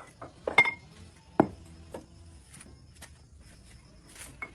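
A few sharp knocks, the loudest a quick cluster about half a second in and a single hard knock about a second and a half in, with fainter ticks after.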